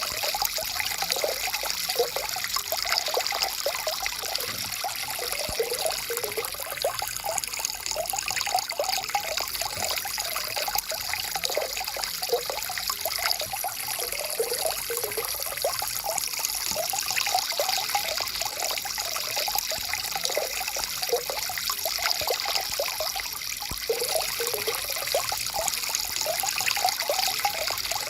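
Stream water flowing and trickling steadily over rocks, with a constant rush and a busy bubbling gurgle.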